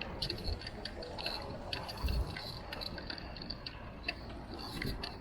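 Bicycle riding over a city street, heard from a handlebar-mounted action camera: irregular light clicks and rattles over a low steady rumble of tyres and wind.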